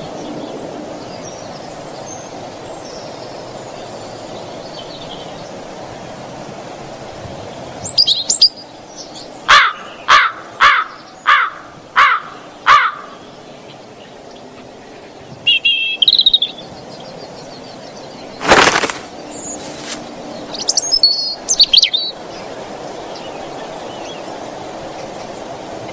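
Birds chirping and calling over a steady background hiss, with a run of six loud calls about two-thirds of a second apart, each falling in pitch, starting about ten seconds in. A single loud, brief burst of noise comes about three-quarters of the way through, followed by more high chirps.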